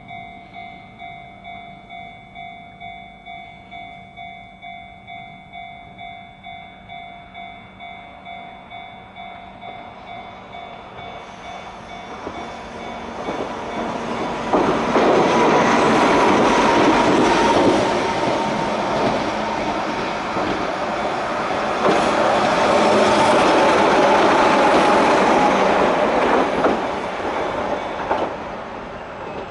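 Japanese level-crossing warning bell ringing at about two strokes a second, then a Keihan 600-series train coming up and passing over the crossing, the bell lost under the loud rail and motor noise for most of the second half before it fades near the end.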